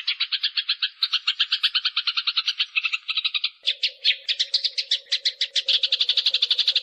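Eurasian tree sparrows fighting: a dense, rapid run of harsh chirps at about ten a second, without pause. A steady low hum joins a little past halfway.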